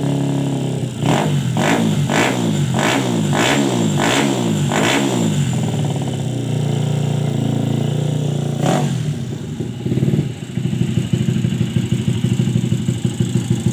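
Custom Yamaha Jupiter four-stroke motorcycle engine with a four-valve head, revved in quick repeated throttle blips a little under twice a second, then held up and blipped once more. It then settles to a steady, even idle.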